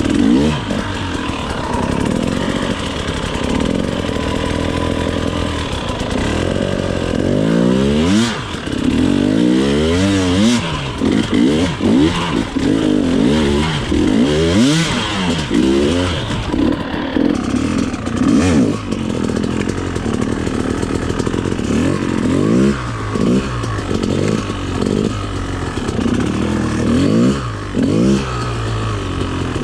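Two-stroke dirt bike engine revving up and down over and over as the throttle is opened and closed, with many quick rises and drops in pitch.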